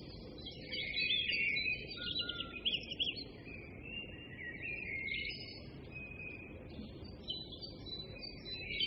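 Faint birdsong: a small songbird chirping and warbling in quick trills, with short pauses between phrases.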